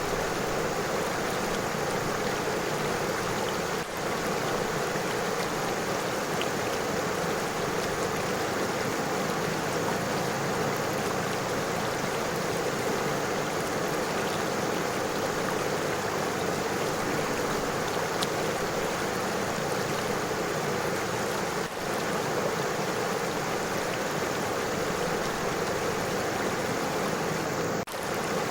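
River water flowing and splashing over stones: a steady, even rushing that dips for an instant three times.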